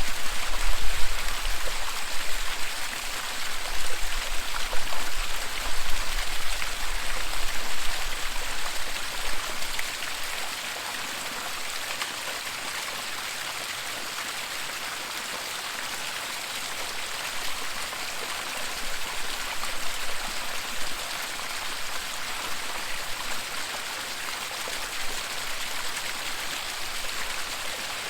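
Waterfall: rushing, splashing water as a steady dense hiss. For about the first ten seconds a deep, unsteady rumble rises and falls beneath it, then the sound settles to an even level.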